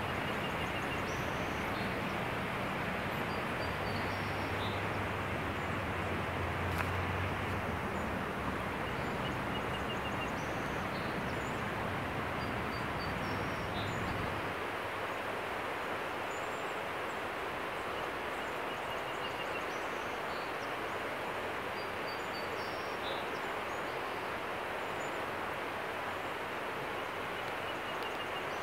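Outdoor nature ambience: a steady rushing noise with short faint bird chirps scattered through it. A low distant rumble underneath fades out about halfway.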